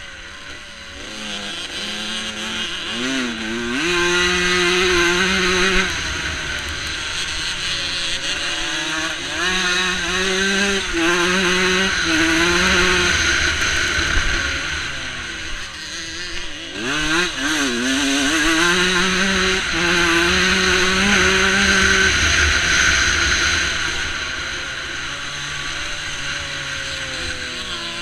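Onboard sound of a 125cc motocross bike's two-stroke engine revving hard through the gears, its pitch climbing, holding and dropping again and again as the rider shifts and works the throttle. It eases off about halfway through and picks up again, with wind rumble on the microphone underneath.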